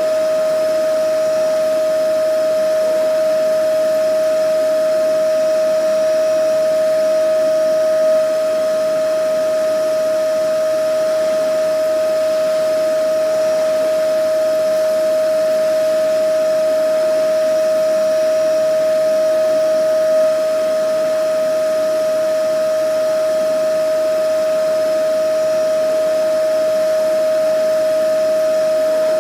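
Vacuum cleaner motor running steadily: a constant, unchanging whine over a rushing air noise.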